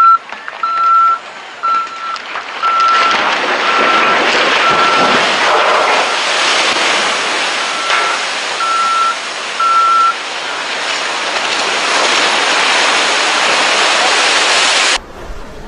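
Truck reversing alarm beeping about once a second, a single high tone, stopping about ten seconds in. Beneath it a loud steady rushing noise builds up a few seconds in and cuts off suddenly near the end.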